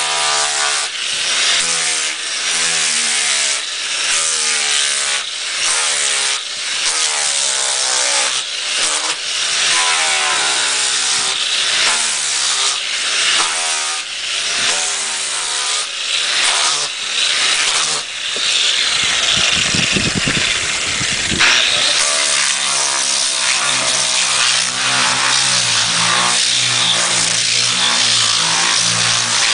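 A handheld power tool motor runs continuously, its pitch dipping and recovering about once a second as it is worked under load. A deeper rumble swells in for a few seconds about two-thirds of the way through.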